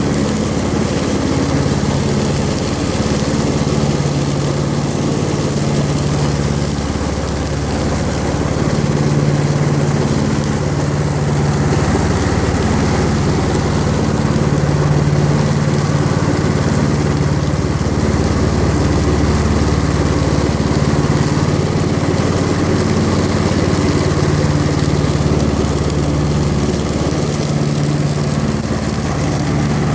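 Tractor engine running steadily, its hum swelling and easing every few seconds.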